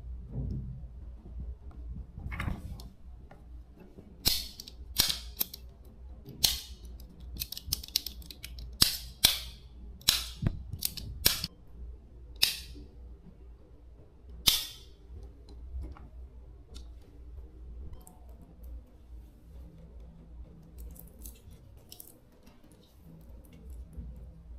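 A run of about a dozen sharp knocks or clicks, irregularly spaced, over a low steady hum, with a few fainter ticks near the end.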